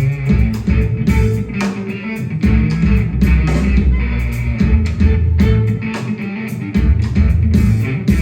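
Live rock band playing an instrumental passage: electric guitar over bass guitar and drums.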